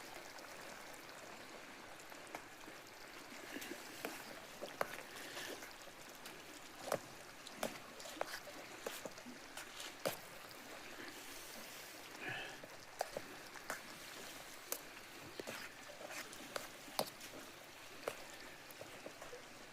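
Small campfire crackling, with irregular sharp pops and snaps over a steady low hiss.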